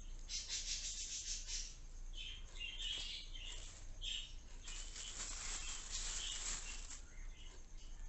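Pet budgerigars chirping and chattering in quick runs of high chirps, with a denser, hissier stretch of chatter in the middle.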